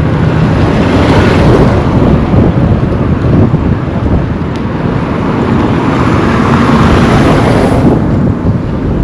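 Wind rumbling on the microphone over road traffic, with vehicles passing close by, swelling twice and easing near the end.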